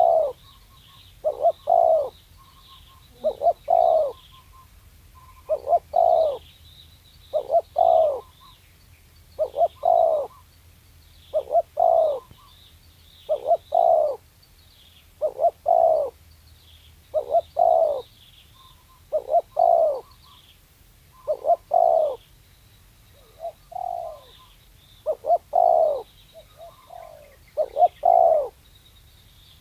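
Spotted dove cooing: a short phrase of two or three low coos, repeated about every two seconds, with faint high chirps of small birds behind it.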